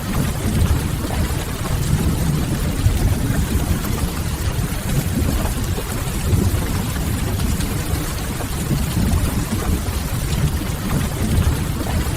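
Steady rain with a low, even rumble, mixed with the faint, occasional crackle of a wood fire.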